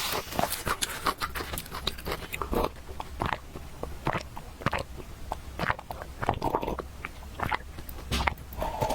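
Close-up sound of someone eating noodles: chewing with many short, irregular wet mouth clicks, several a second.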